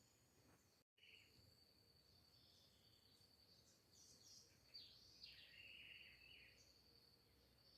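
Faint outdoor nature sound: a steady high insect drone with short bird chirps and falling calls, strongest from about four seconds in. The sound drops out completely for a moment about a second in.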